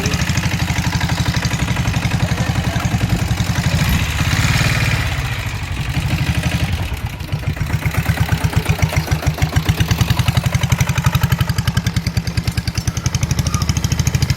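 Royal Enfield Bullet single-cylinder motorcycle engine running in gear under heavy load as it tows a truck, with a steady pulsing beat. A brief rushing noise comes about four seconds in and the level dips near seven seconds, then the even beat returns.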